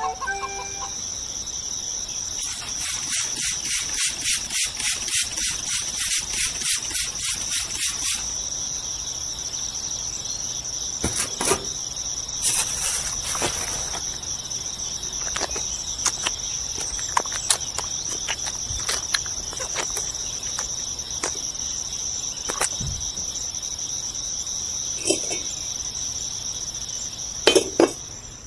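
Steady high-pitched cricket-like insect trill, pulsing quickly and evenly for several seconds in the first third. Light scrapes and taps of a small trowel and lid on wet cement come through now and then, with two sharper clicks near the end as a miniature brick is pressed in.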